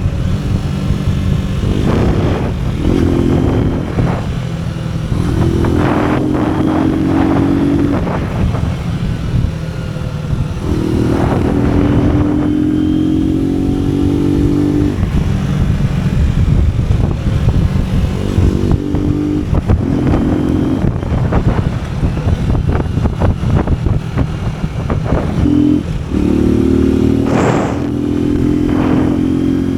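AKT NKD 125 motorcycle's single-cylinder four-stroke engine running on the road, climbing in pitch under throttle in several runs that each break off and pick up again.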